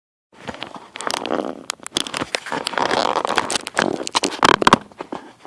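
Dense rustling and crackling of dry material close to the microphone, with many sharp clicks.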